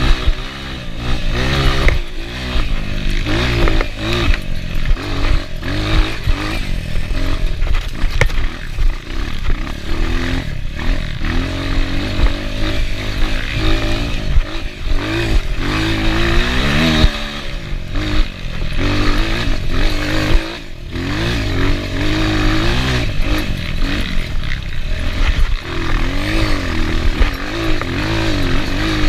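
Enduro motorcycle engine revving up and down over and over as it is ridden hard, with rattles and knocks throughout.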